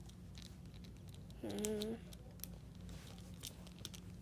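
Faint clicks and rustles of a plastic action figure being handled, over a steady low hum, with one short hummed vocal sound about a second and a half in.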